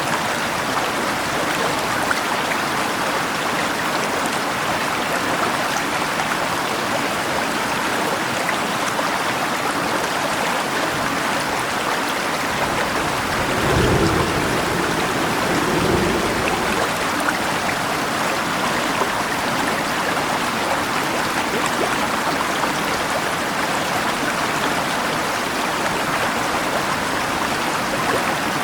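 Steady rushing of river water, with a low rumble of thunder about halfway through that swells twice over a few seconds.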